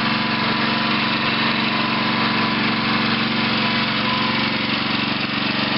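Small pull-start engine of a towable mini backhoe running steadily at an even speed.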